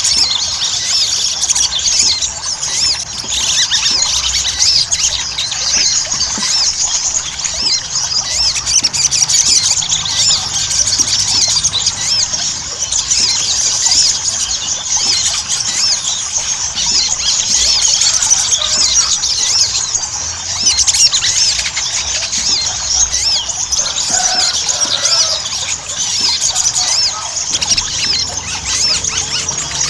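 Little spiderhunter (sogon) song: a dense, unbroken stream of rapid, high-pitched sharp chirps.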